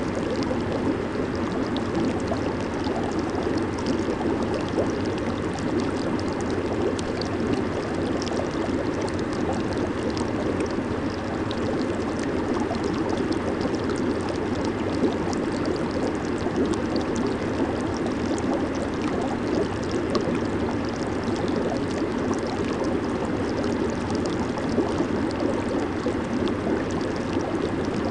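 Jacuzzi water churning steadily, with bubbles fizzing and the water surging under the jets.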